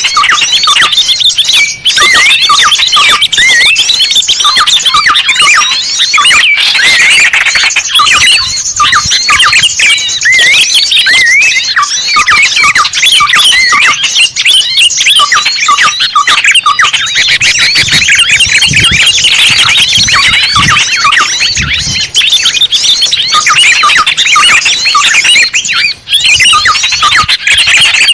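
Dense, loud chorus of many small birds chirping and squeaking at once, with no let-up: a bird-lure recording of small songbirds.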